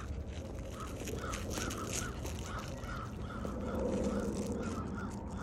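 Birds outdoors giving short, repeated calls of the same pitch, about two or three a second, over a faint steady low hum.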